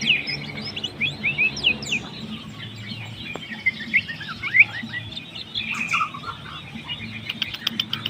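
Caged songbird singing a fast, continuous, varied song of sharp downward-slurred chirps, in full song.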